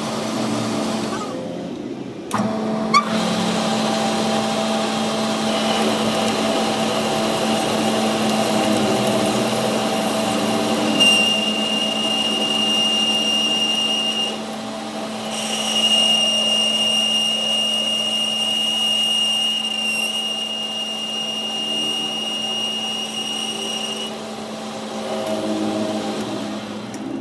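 A workshop power machine runs steadily with a constant hum. A high-pitched whine comes in a few seconds in, drops out briefly about halfway through, and stops near the end. There is a sharp click early on.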